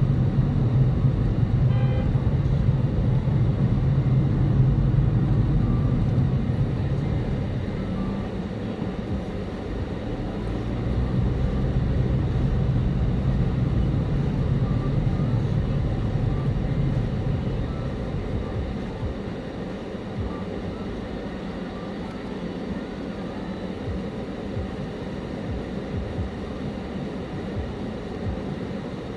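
Car engine and tyre-road noise from inside the cabin while driving. The low hum and rumble are louder for the first half, then settle lower about two-thirds of the way through as the car eases off.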